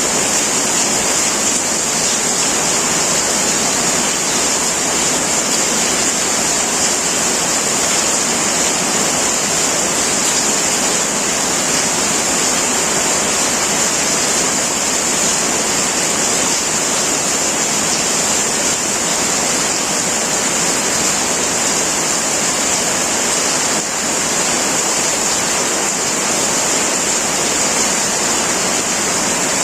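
Heavy rain pouring steadily onto a tin roof: a dense, unbroken bright hiss with no let-up and no thunder.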